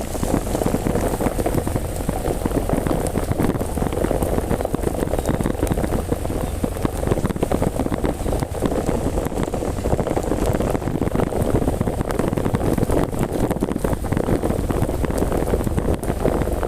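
Heavy rain pouring down steadily, a dense unbroken hiss and patter, with a low rumble underneath.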